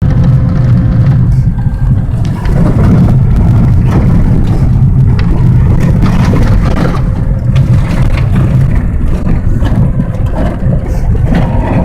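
A vehicle driving on a snow-covered dirt road: a loud, steady low rumble of engine and tyres, with scattered knocks and thuds.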